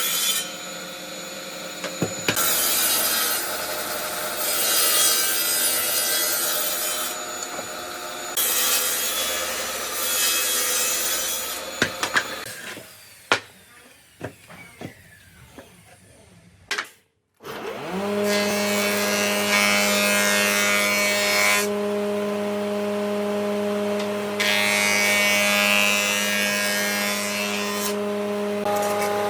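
Electric woodworking tools working wood: a motor with a steady hum and rasping bursts of cutting or sanding noise. About halfway through it stops for a few seconds of light knocks and clicks, then a motor starts up and runs steadily, with more rasping over it.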